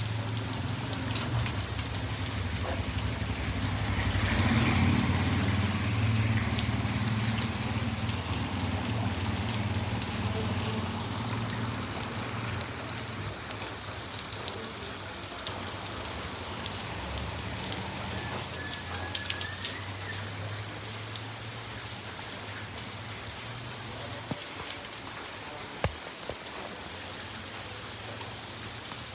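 Rain falling and pattering on surfaces, with many small drop ticks through a steady hiss. A low hum underneath is loudest in the first half and fades away, and there is one sharp knock near the end.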